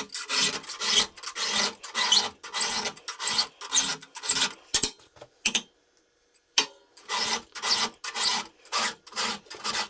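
A 3/16-inch round file hand-sharpening the cutters of a .325 chainsaw chain, in rasping strokes about three a second. The strokes pause for about two seconds just before the middle, broken by a couple of light clicks, then resume. The file is taking a lot of metal off cutters badly dulled in snow and mud.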